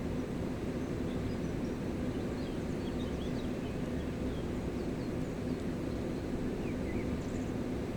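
Gave de Pau river flowing, a steady low rush of water, with faint scattered bird chirps above it.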